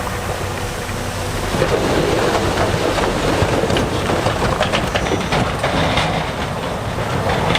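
Heavy diesel earthmoving machinery running steadily. About a second and a half in, a dense rattle of stones grinding and clattering against each other and against steel joins it.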